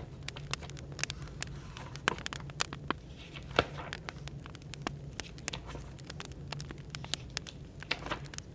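Burning firewood crackling, with sharp irregular pops several times a second and a louder snap about three and a half seconds in, over a steady low hum of background room noise.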